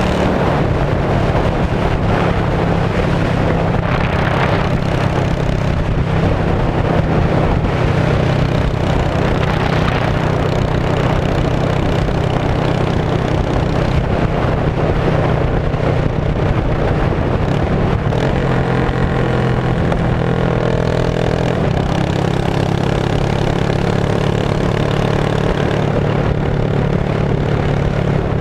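A 2002 Yamaha V-Star 650's air-cooled V-twin running at a steady speed through straight pipes: a loud, even exhaust note with no revving.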